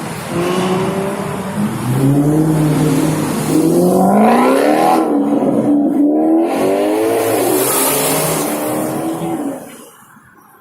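A car engine revving loudly. Its pitch climbs and falls back twice, then the sound drops away near the end.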